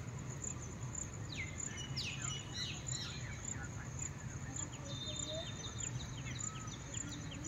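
Birds chirping, a series of quick downward-sliding calls that are busiest in the first few seconds, over a steady low background hum.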